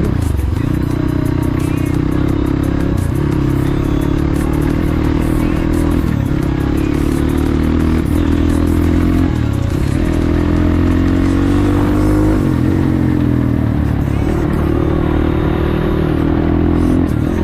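Motorcycle engine running while riding, its pitch rising and falling with the throttle, easing off briefly every few seconds, with clattering over a rough road.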